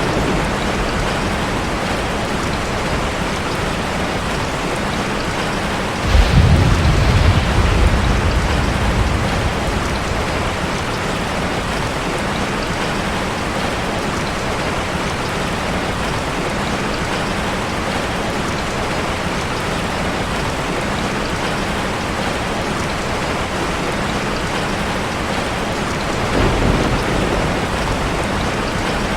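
Steady rushing hiss of falling water from a waterfall ambience. A low rumble swells in about six seconds in and lasts a few seconds, and a shorter one comes near the end.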